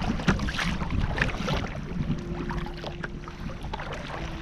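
Choppy sea splashing and slapping against a paddled sea kayak, with many short splashes from the waves and paddle strokes, over a low rumble of wind buffeting the microphone.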